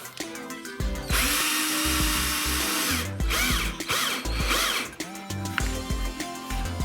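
Power drill running in three goes: a long steady run about a second in, then two short runs with the motor pitch rising and falling as the trigger is worked. Background music plays throughout.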